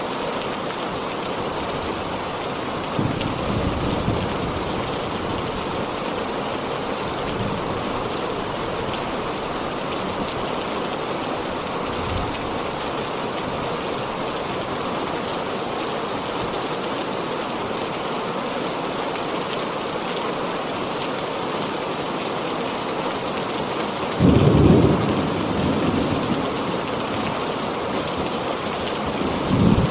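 Heavy rain falling steadily with thunder: a low rumble a few seconds in and a louder clap of thunder rumbling on about three-quarters of the way through.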